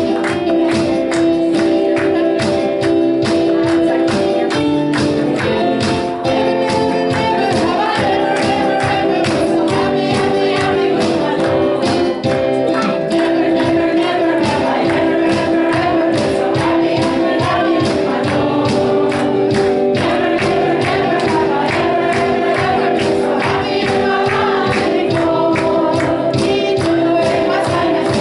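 Congregational worship music: a group singing over sustained chords, with a steady beat and tambourine.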